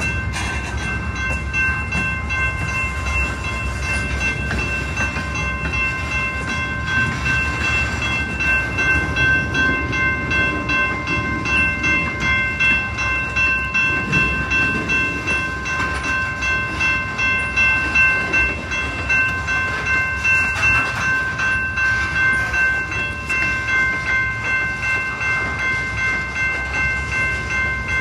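A General Signals Type 2 electronic railroad crossing bell is ringing at an active crossing. It gives an even, repeating ding of about one and a half strikes a second over a low rumble.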